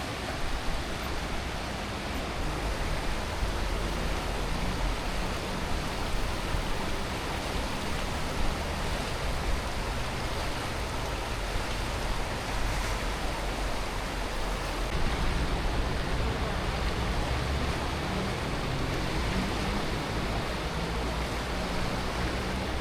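The Aare River rushing through a narrow gorge: a steady, unbroken wash of flowing water.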